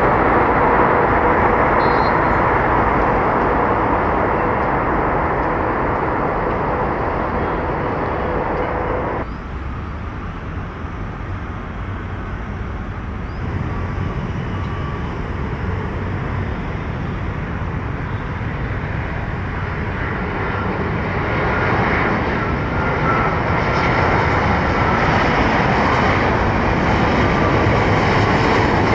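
Jet airliner engines running loud and steady, with a steady tone in the first nine seconds. The sound drops abruptly about nine seconds in, then builds again toward the end with a faint whine.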